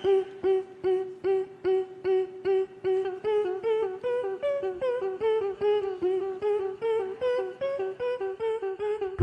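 A cappella vocal group opening their act with short, pulsed hummed notes at a steady beat of about two to three a second: one voice repeats the same note while a higher melody moves above it.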